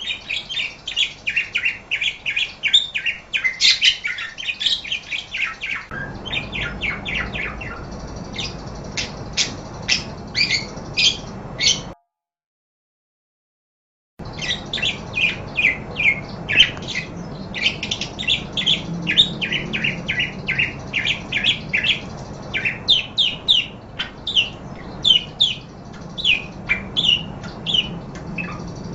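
Pet parakeets chattering: rapid, continuous chirps and warbling squawks. The sound cuts out completely for about two seconds partway through, then the chattering resumes.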